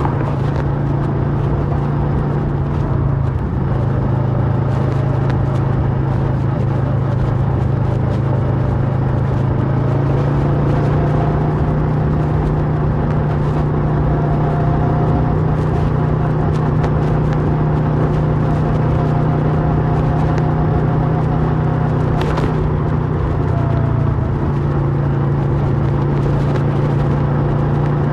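Kawasaki Versys 650's parallel-twin engine running through a MIVV slip-on exhaust at steady riding revs. The engine note dips briefly about three seconds in, rises a little about ten seconds in, and dips again near the end.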